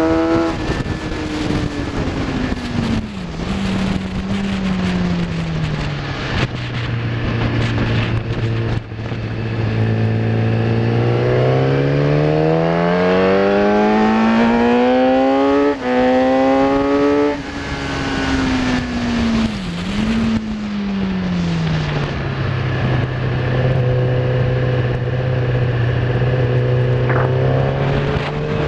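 Kawasaki ZX-10R's inline-four engine at track pace, with wind noise. The engine note falls under braking and downshifts, climbs through the gears with quick upshifts around the middle, falls again with a blip, holds steady, and picks up again near the end.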